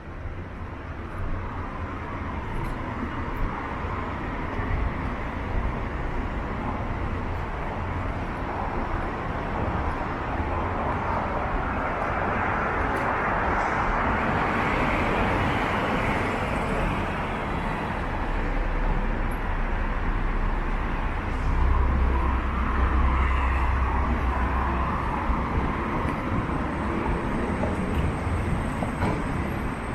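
Downtown street traffic: cars driving past steadily, one passing loudly near the middle, and a heavier vehicle rumbling low about two-thirds of the way through.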